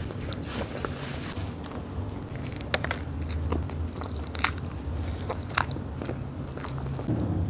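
Close-miked eating of a fast-food burger: wet chewing with scattered crisp crunches, the sharpest about three, four and a half and five and a half seconds in. A low steady hum runs underneath.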